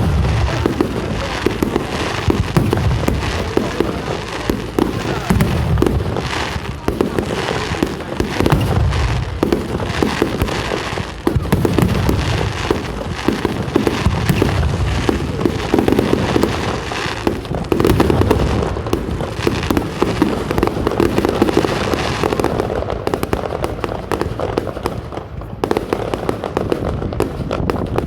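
Fireworks display going off without a break: dense, rapid bangs and crackling overlapping one another, thinning a little near the end.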